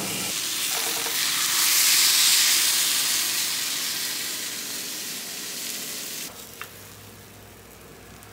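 Oat and mashed-banana clusters sizzling as they pan-fry in a nonstick skillet. The sizzle is loudest about two seconds in, slowly fades, and drops suddenly to a faint sizzle about six seconds in.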